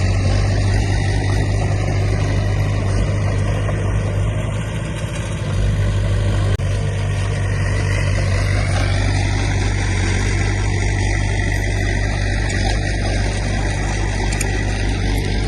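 Diesel engine of heavy earthmoving equipment running steadily, with a slight dip in level about five seconds in.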